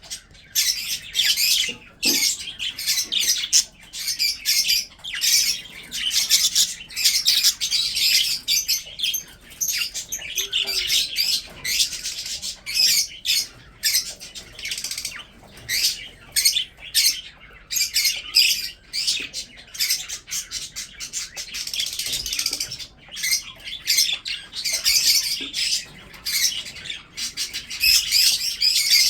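A flock of budgerigars chattering and chirping continuously, many short high-pitched calls overlapping with occasional harsher squawks.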